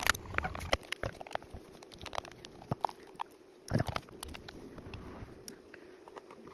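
Hand tool prying and scraping at the glue-sealed housing of a car's electronic control module: scattered clicks and crunches, with a denser burst about four seconds in.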